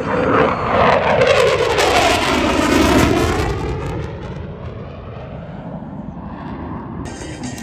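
F-15 Eagle fighter jet making a fast, loud pass; the engine pitch falls steadily as it goes by, then the sound fades away.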